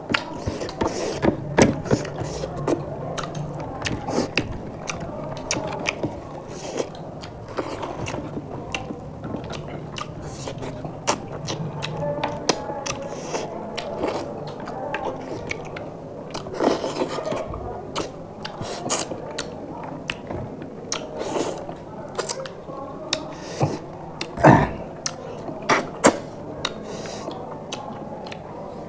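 Two people eating rice and fish curry with their hands close to the microphone: chewing and wet lip-smacking, with fingers mixing rice on the plates. Short, sharp mouth clicks come throughout, the loudest about three-quarters of the way through.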